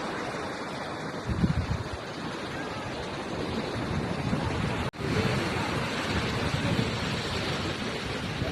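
Wind buffeting the microphone in gusts over a steady rushing noise, cut by a brief dropout about five seconds in.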